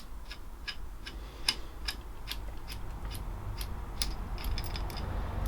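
Socket ratchet clicking steadily, about two or three clicks a second, as it winds off the Honda CB250's flywheel nut, now broken loose.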